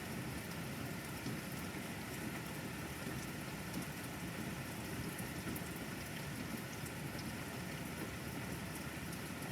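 Steady rain falling, an even hiss sprinkled with tiny drop ticks.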